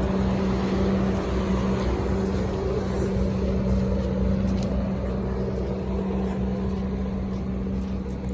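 Diesel school bus engines idling, a steady low drone with a constant hum.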